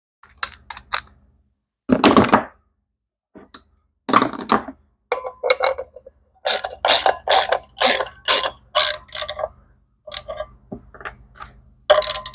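Hand tools and metal parts clinking and clacking during clutch assembly: scattered sharp knocks, then a run of regular strokes, about two a second, in the middle.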